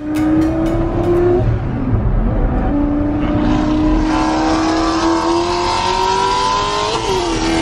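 Twin-turbo V10 of a 2005 Lamborghini Gallardo with the Underground Racing 2R package accelerating, heard from inside the cabin. The engine note climbs, drops about a second and a half in, climbs again for about four seconds, and dips once more near the end, the pattern of upshifts through the gated six-speed manual.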